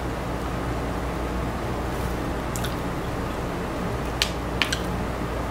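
A person chewing fried chicken close to the microphone, with a few short sharp clicks about two and a half and four seconds in, over a steady low hum.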